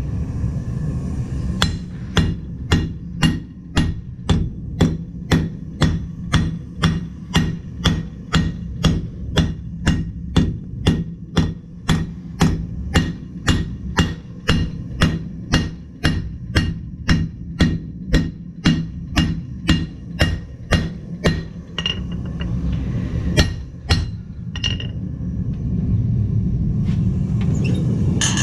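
Blacksmith's hammer striking metal on an anvil, about two blows a second in a steady run that stops about two-thirds through, followed by a few separate blows. A steady low rumble runs underneath and grows louder near the end.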